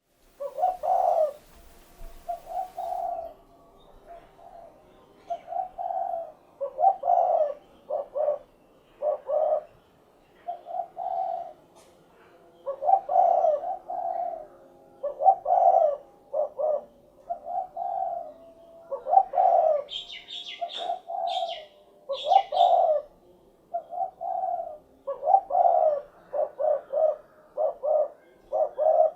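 Spotted dove cooing over and over in its phrased "cukurukuk-kuk" call. A few higher chirps join in around 20 seconds in.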